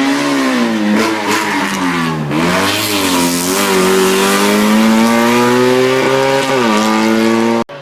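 Race car engine at full throttle, the revs climbing and dropping several times as it changes gear, with one long climb in the middle; the sound cuts off suddenly near the end.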